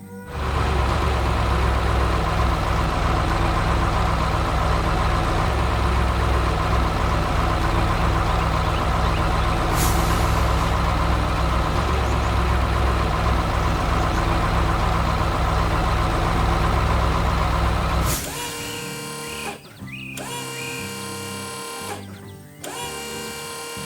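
A heavy vehicle engine running steadily and loudly for most of the clip, then cutting off abruptly near the end, where light background music with a regular rhythm takes over.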